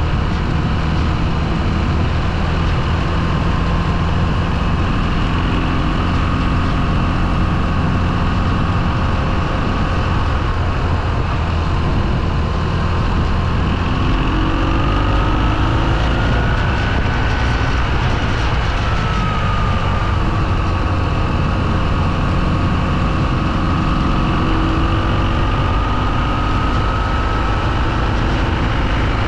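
Motorcycle engine running under way, mixed with steady wind and road noise; its pitch rises and then falls back about halfway through as the speed changes.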